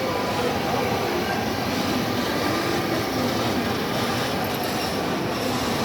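A children's ride vehicle running steadily along its course, a continuous rumble and rattle with faint wavering squeals.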